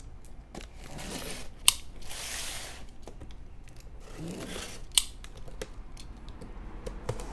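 A cardboard box being opened: packing tape being cut and torn, with rustling swishes and scattered clicks, and two sharp cracks, one about a second and a half in and one about five seconds in.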